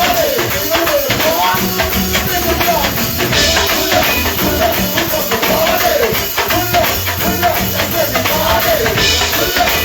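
Live band music: a pulsing bass line, drums and jingly hand percussion under a wavering melody line, playing steadily throughout.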